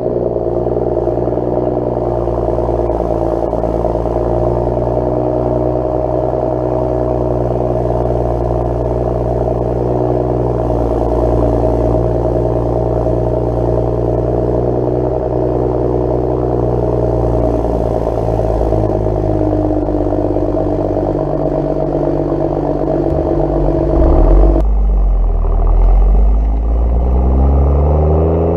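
BMW 335i's turbocharged straight-six, heard through an M Performance exhaust, idling steadily just after a cold start. About 24 seconds in, the sound deepens and the engine speed dips, then climbs again near the end.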